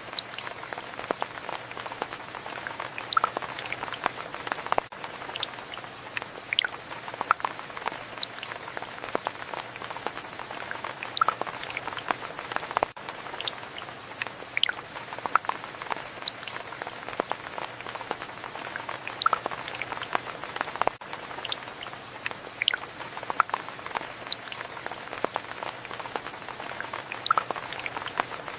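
Steady rain with scattered individual drops pattering close by.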